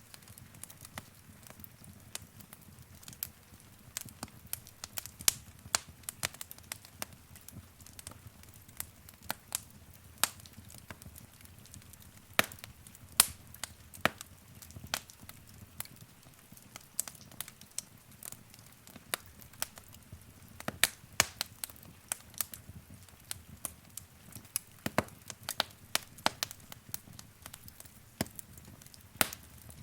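Wood fire crackling in a fireplace: irregular sharp pops and snaps, several a second, over a soft low rumble of the burning fire.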